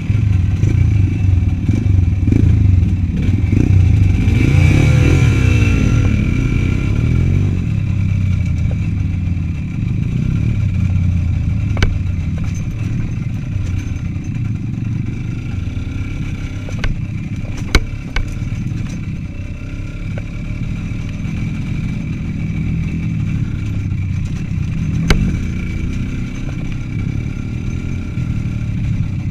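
Small motorcycle engine running under way on a forest trail, revving up and back down about five seconds in, then pulling more steadily, with a few sharp knocks and clatters along the way.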